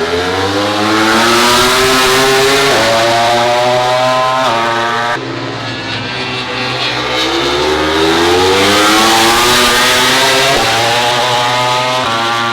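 MotoGP prototype race bikes accelerating hard, the engine note rising through each gear with sudden drops at the upshifts. The sound is loudest about two seconds in and again about nine seconds in, as bikes pass close by.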